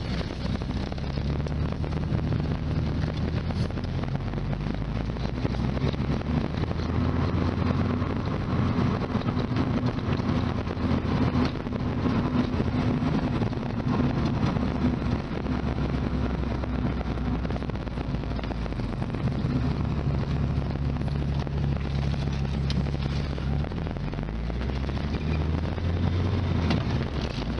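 1991 Lotus Elan M100's four-cylinder engine running while the car is driven, with road and wind noise. The engine note shifts up and down several times as the car speeds up and slows.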